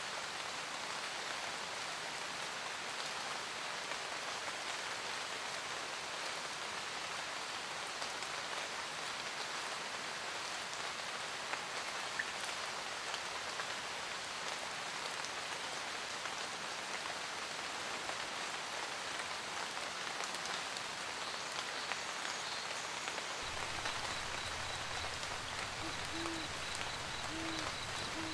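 Steady rain pattering, with an owl giving three short hoots near the end. A low rumble comes in shortly before the hoots.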